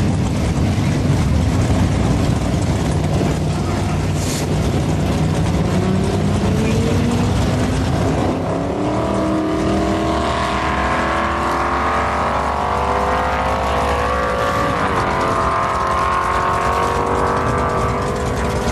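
Ford Customline drag car's engine launching and accelerating down the strip: a heavy rumble at first, then the engine note climbing steadily for about ten seconds, dropping sharply once at a gear change and climbing again.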